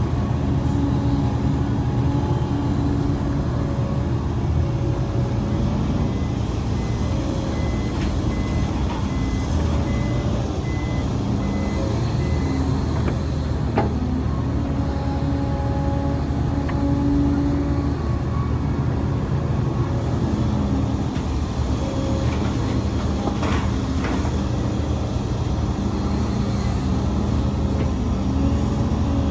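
Diesel engines of an excavator and dump trucks running steadily at an earthworks dig. A truck's reversing beeper sounds repeatedly for several seconds in the middle, and a single metallic knock comes just after.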